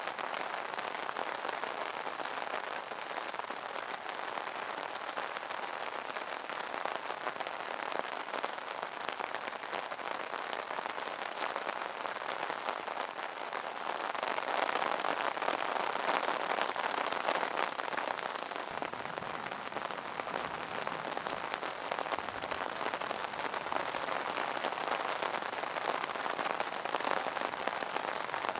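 Rain pattering on an umbrella's canopy: a dense, steady patter of drops, growing somewhat heavier about halfway through.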